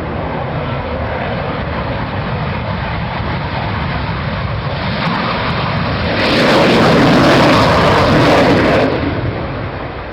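Jet aircraft flying past: a steady rushing noise that builds, peaks loudest about two-thirds of the way through, then fades as it goes away.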